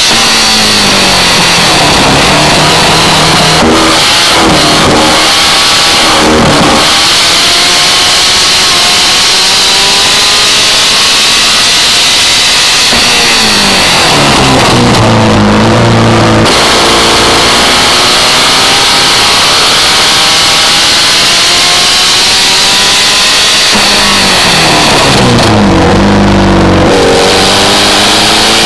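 Birkin S3 sports car's engine driven hard on track: the note climbs through the gears, then falls away sharply under braking and downshifts about three seconds in, around fourteen seconds and again around twenty-five seconds, before pulling up once more. A steady rushing noise sits over the engine throughout.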